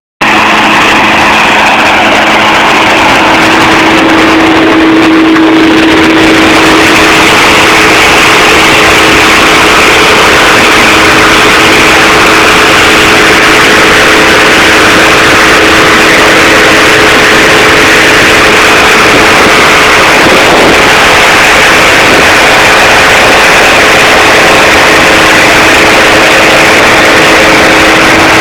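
A small motor running steadily with a loud rush of air and an unchanging hum.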